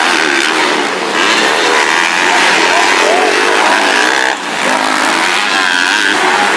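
Several motocross bikes' engines revving up and down together, a loud, dense wash of engine noise with pitches rising and falling, briefly dipping about four seconds in.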